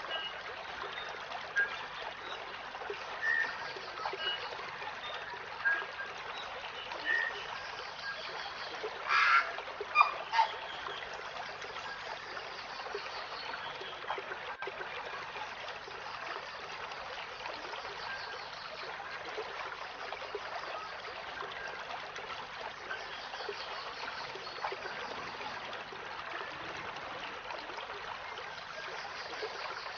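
A bird giving short calls about every second and a half, with a louder flurry about nine to ten seconds in, over a steady hiss like running water; the calls stop after that and only the hiss goes on.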